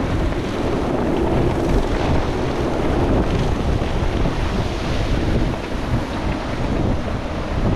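Wind buffeting the microphone over a steady rush of water, aboard a sailing yacht under way.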